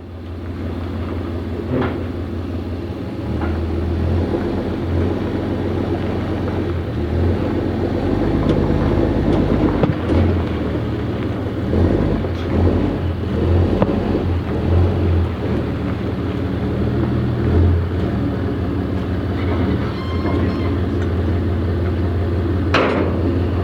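A truck's engine runs steadily with a deep low rumble that swells and eases, along with a few clunks and rattles.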